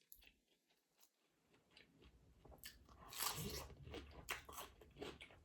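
Close-miked eating of a seafood boil: faint biting and crunchy chewing that start about two seconds in after a short near-silence.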